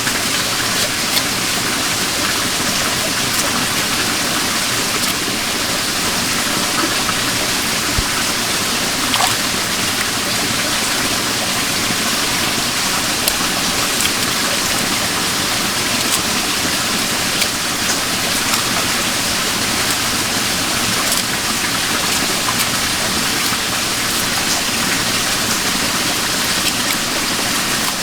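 Steady rushing of a forest stream, with a few faint clicks here and there.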